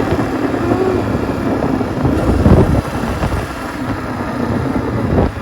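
Honda CRF250F dirt bike's single-cylinder four-stroke engine running under changing throttle, with a louder burst of throttle about two and a half seconds in. Wind noise on the microphone runs under it.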